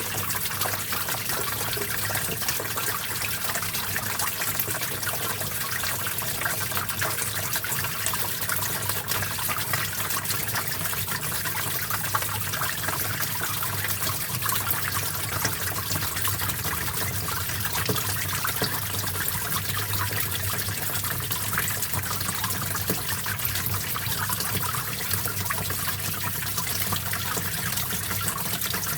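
Small stream of water flowing steadily, trickling and splashing over rocks.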